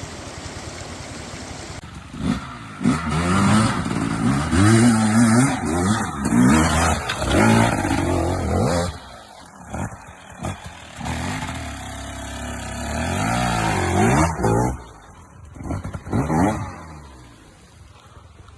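Enduro dirt bike engine revving hard and easing off again and again, its pitch climbing and falling with each burst of throttle. Before it comes in, about two seconds in, there is a steady rushing noise.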